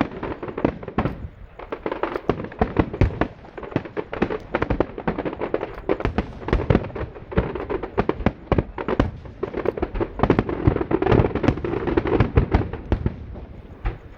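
Fireworks display in a dense barrage: many aerial shell bursts and bangs going off in rapid succession, several a second.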